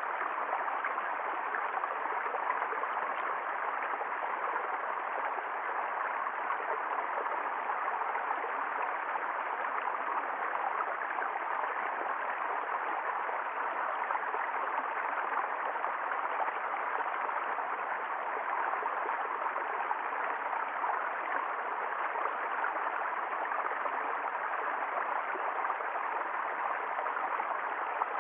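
Water flowing steadily down a valley stream (wadi), an even rushing and gurgling with no breaks.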